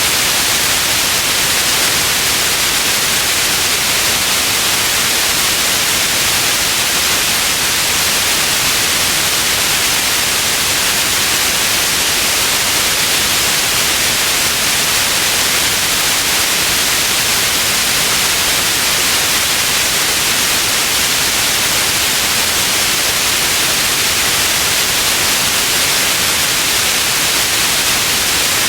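Steady synthetic white noise: an even, unbroken hiss, brightest in the upper range and thinner in the low end.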